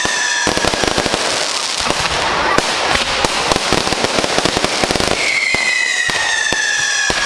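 Fireworks going off in a rapid, dense crackling barrage with bangs, and a whistling firework whose tone slides down slightly, starting about five seconds in.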